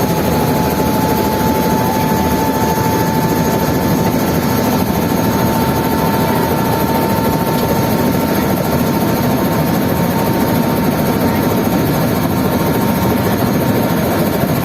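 Helicopter running steadily close by: a loud, even din with a constant high whine.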